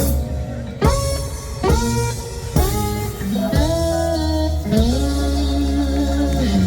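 Live blues band playing, led by an electric guitar with bent, gliding notes over strong bass.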